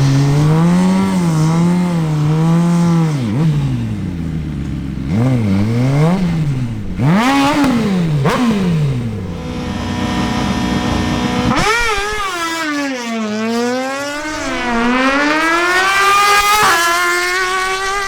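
Suzuki GSX-R1000 inline-four sportbike engine revving at the drag strip start line in sharp repeated blips. From about twelve seconds in, the engine note changes and climbs and drops in long sweeps as the bike makes its quarter-mile run.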